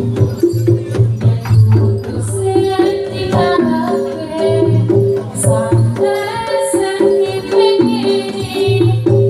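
Javanese gamelan ensemble playing Samboyo dance music: drumming with steady, repeating gong-chime notes and a wavering melody over them.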